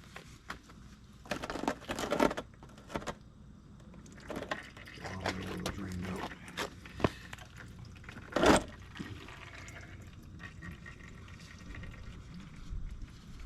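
Oil draining and dripping from the dirt bike's engine into a drain pan while the bike is tilted up off its kickstand, with scattered knocks and clunks from the bike being handled; one knock about eight and a half seconds in is the loudest.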